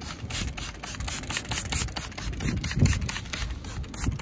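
A trigger spray bottle squirted over and over, a quick run of short hissing bursts, with wind rumbling on the microphone.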